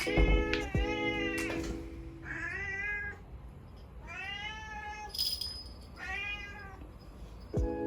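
Domestic cat meowing about four times, each meow a drawn-out call that rises and then falls in pitch, over background music.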